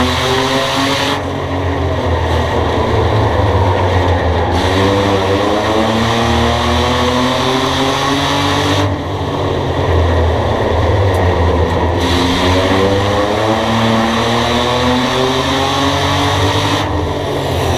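Race car engine at full throttle on a short oval track, its pitch climbing as the car accelerates, then easing off as the driver lifts. This happens twice.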